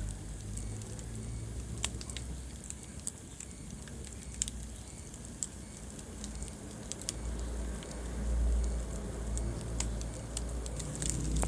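Wood fire burning in a fireplace, crackling with scattered sharp pops over a low rumble of flame that swells for a couple of seconds near the end.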